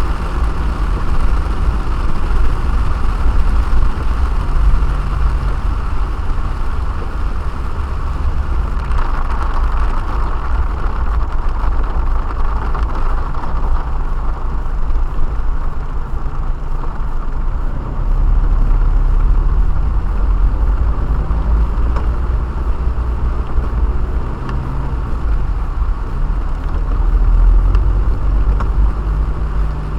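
A car driving, heard from inside the cabin: a low engine and road rumble whose engine note shifts up and down with speed, over a steady hiss.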